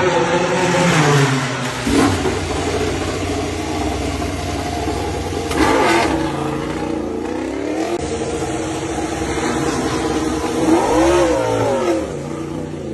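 MotoGP prototype race motorcycles on track at racing speed. High-revving engines rise and fall in pitch through gear changes, and bikes pass by with the pitch sweeping up and then down.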